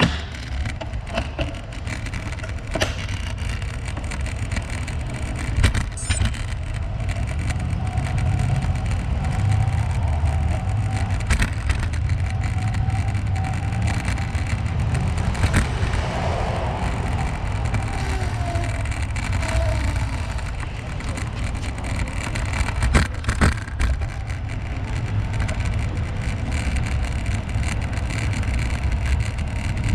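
Riding noise: a steady low rumble of wind buffeting the microphone while moving along a path, with tyre-on-path noise and scattered sharp clicks and knocks.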